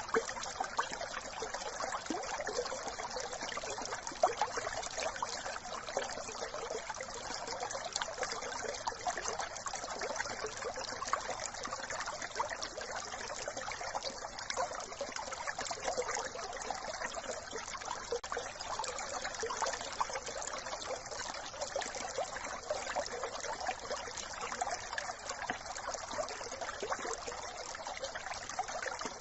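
A brook running steadily over stones, a continuous trickling and burbling of water.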